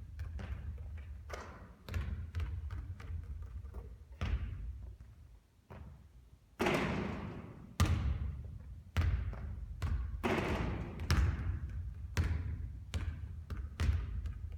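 Basketball bouncing on a hard court with irregular thuds, and several louder bangs that ring out briefly, over a steady low rumble.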